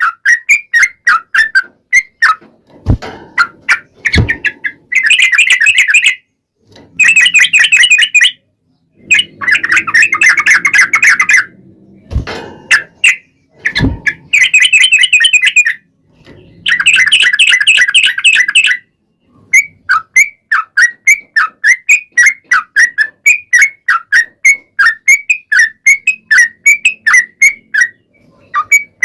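Yellow-vented bulbul (trucukan) singing loudly: strings of short falling chirps at about four a second, broken by several long, rapid trilling runs of about two seconds each, the long trill ('ropel panjang') used as a lure to make other trucukan answer. A few sharp clicks sound in the first half.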